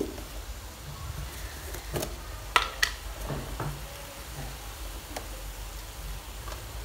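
Beef sizzling quietly in a steel wok, over a steady low hum, with a few sharp clicks about two to three seconds in.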